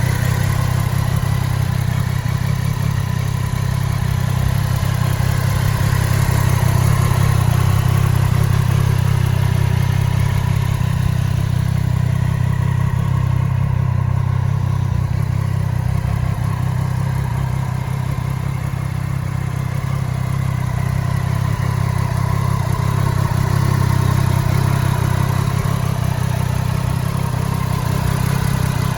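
Triumph Street Triple RS's 765 cc three-cylinder engine idling steadily.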